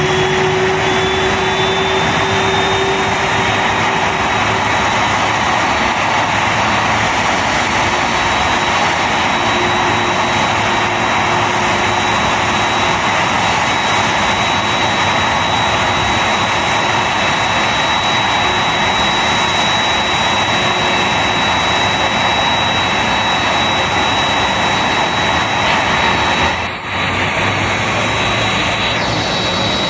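Jet engines of a Boeing 787-8, Rolls-Royce Trent 1000 turbofans, running at ground idle after start: a steady loud roar with a high whine that climbs a little in the first few seconds and then holds. The loudness dips briefly near the end.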